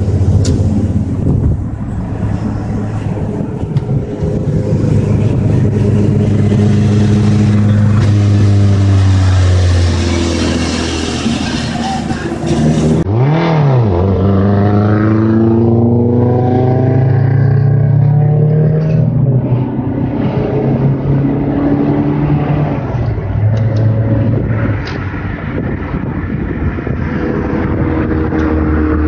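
Car engines heard from inside a moving car, repeatedly rising in pitch as they accelerate and dropping back at each shift, with a quick sharp rev blip about halfway through.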